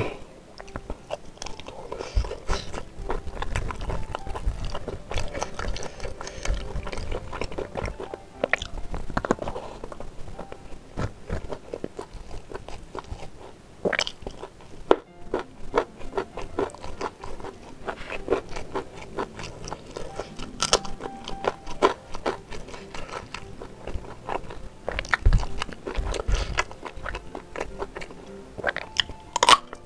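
Close-miked eating: a person chewing and biting on beef ribs eaten by hand, with many short sharp clicks of teeth, mouth and food throughout.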